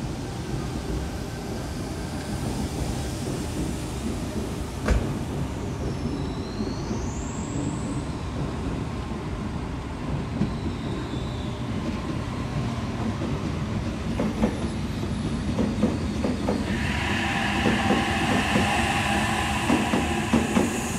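Sydney Trains electric double-deck suburban train running into the platform and past at close range: a steady rail rumble with brief high wheel squeals about six to eight seconds in. In the last few seconds its wheels clack over the rail joints under a steady motor whine as the carriages pass close by.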